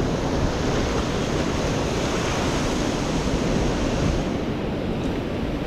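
Ocean surf washing steadily, with wind on the microphone; the higher hiss eases about four seconds in.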